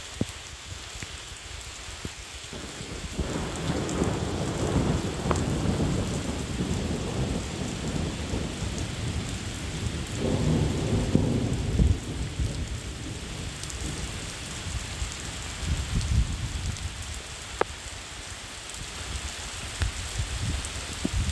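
Steady rain falling, with a long low rumble of thunder that builds about three seconds in, swells again around ten seconds and dies away, followed by a smaller rumble a little later.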